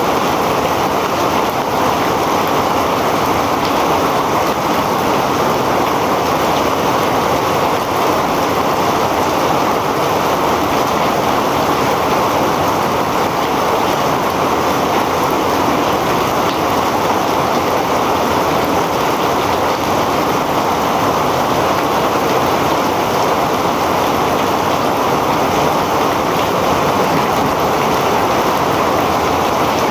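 Heavy rain falling as a steady, dense hiss, unbroken and even in loudness.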